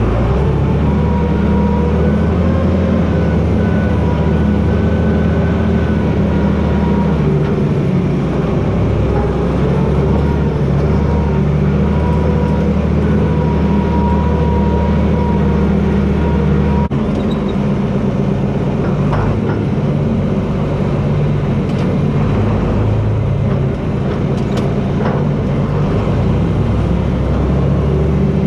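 John Deere 4320 tractor's six-cylinder diesel engine running steadily under load, with a faint steady whine above it. The engine note changes about halfway through, and a few short cracks follow.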